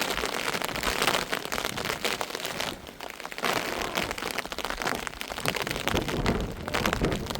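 Heavy rain falling, with a dense spatter of drop impacts that eases briefly about three seconds in.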